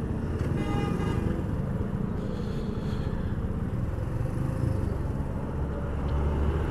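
Motorcycle engine, the rider's Suzuki GS 150 single-cylinder four-stroke, running steadily at low speed in slow traffic, with the surrounding traffic heard underneath. A brief higher-pitched tone sounds about half a second in.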